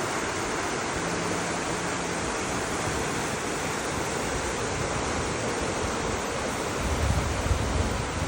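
Chenab River floodwater rushing: a steady, even roar of moving water, with a louder low rumble about seven seconds in.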